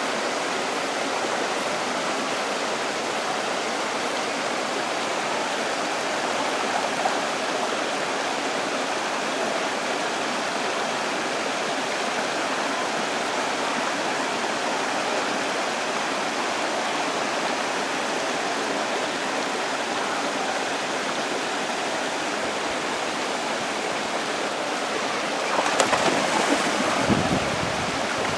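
Steady rushing of waterfall water. Near the end comes a brief burst of louder, uneven noise.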